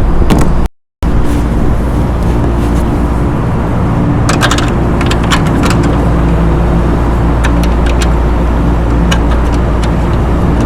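Small hand ratchet with an extension clicking in short runs as bolts are tightened, over a steady low machinery hum. The sound drops out completely for a moment about a second in.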